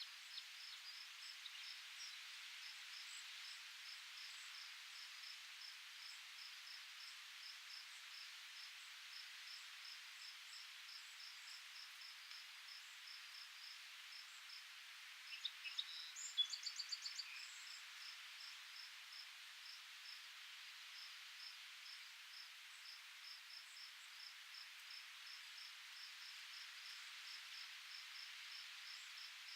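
Faint outdoor ambience: an insect chirping steadily in short, high pulses a few times a second over a soft hiss, with a brief bird call about halfway through, the loudest sound.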